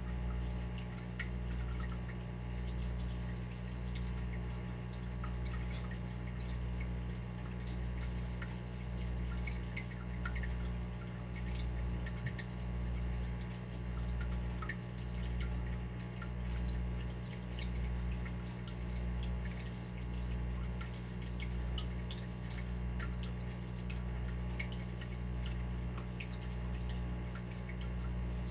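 Water dripping and trickling: many small scattered drips over a steady low hum that swells and fades about once a second.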